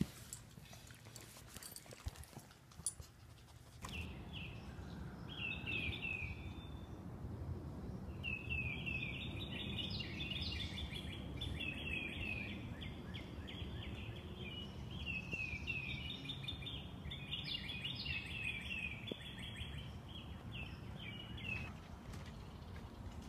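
Songbird singing outdoors in phrases of quick, repeated down-slurred notes, over a steady low outdoor rumble. This follows a few light clicks and jingles in the first seconds.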